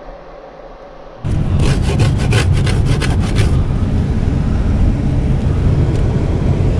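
A loud steady low rumble starts suddenly about a second in, and over it comes a rapid back-and-forth scraping, about five strokes a second, for about two seconds.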